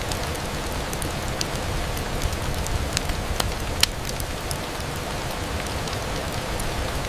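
Steady rain on a window, with scattered sharp ticks of single drops striking the glass and one sharper tick about halfway through.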